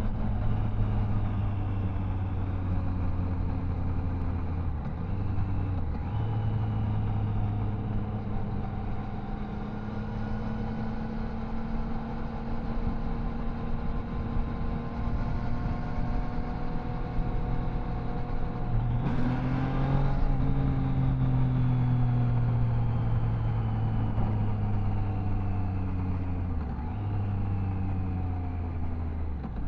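Triumph Tiger Sport 660's three-cylinder engine running under way, with brief breaks in the engine note at gear changes. About two-thirds through, the revs jump up sharply and then wind down slowly.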